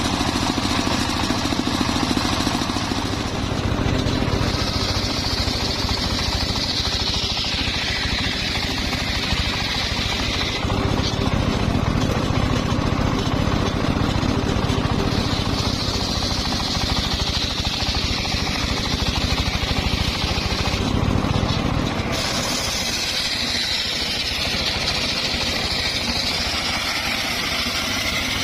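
Homemade circular sawmill running steadily under its engine, its blade cutting through a log in three passes. Each pass adds a high hissing whine over the engine for about six seconds.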